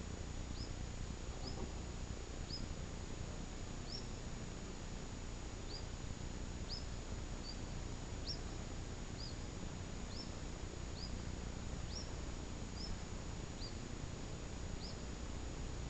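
A small bird repeating a short, high chirp about once a second, over a steady low rumble.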